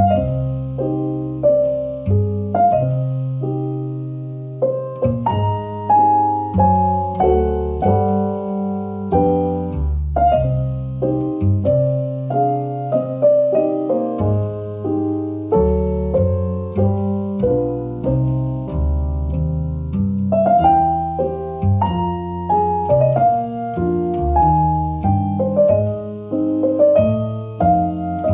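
Background piano music: a melody of single struck notes over lower bass notes, with no other sound beneath it.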